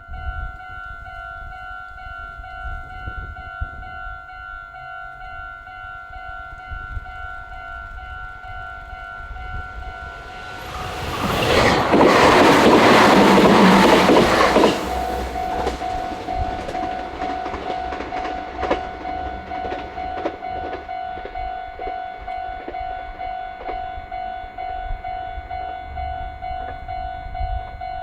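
A railway level-crossing warning bell starts ringing, a steady electronic ding. About eleven seconds in, a Meitetsu electric train rushes past the crossing for about four seconds, with loud wheel and rail noise. The bell keeps ringing after the train has gone.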